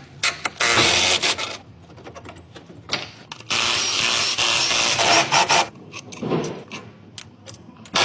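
A power tool running in several short bursts, the longest about two seconds, with clicks and knocks from hand work between them, as bolts are worked loose on an engine mount.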